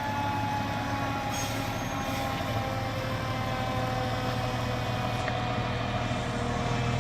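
Heavy truck engine running steadily, with a high whine that falls slowly in pitch.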